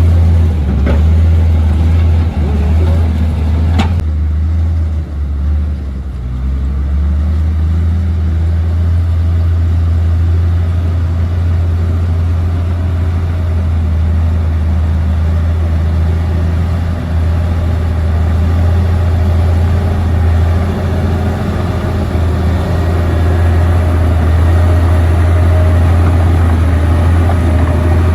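Komatsu D58P bulldozer's diesel engine running steadily with a heavy low drone, with two short sharp knocks in the first few seconds.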